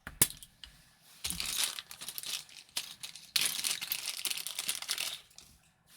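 Packaging crinkling and rustling as it is handled, in two stretches, with a sharp click just after the start.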